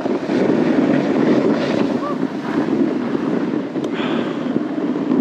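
Snowboard sliding over snow, a steady rushing scrape, with wind buffeting the microphone.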